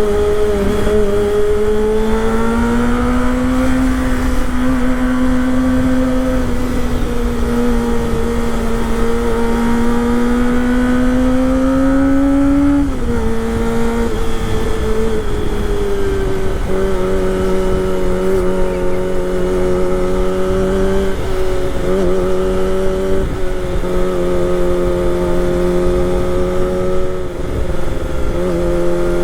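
Kawasaki Ninja ZX-25R's 249 cc inline-four engine running under way. Its note climbs slowly for about ten seconds, drops suddenly about thirteen seconds in, then holds at a lower, steadier pitch.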